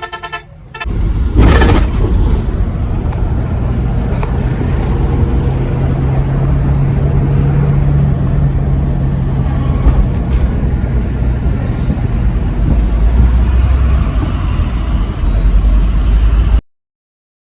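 Heavy truck engine running with a loud, steady low rumble. A short horn-like toot comes right at the start, and a sudden rush of noise about a second and a half in. The sound cuts off sharply near the end.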